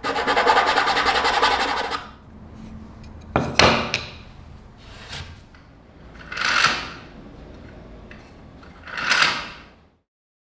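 Hand-made wooden gears being turned in mesh, their filed teeth clattering in a fast, even run for about two seconds. A sharp knock follows, then two swelling rubbing sounds as the gears are worked further. The teeth meshing shows the gears work.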